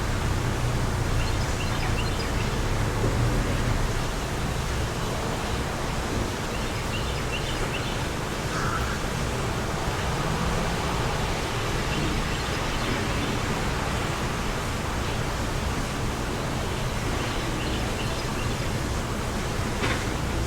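Steady wind blowing, with a low rumble of wind on the microphone that eases slightly about four seconds in. A few faint, short bird chirps sound now and then.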